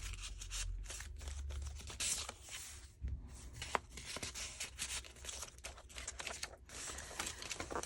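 Paper rustling and crinkling as the pages and pockets of a handmade junk journal are handled and turned, in many short, irregular crackles.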